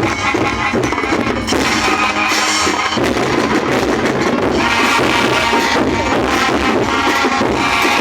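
Student marching band playing, brass over drums, with a steady beat.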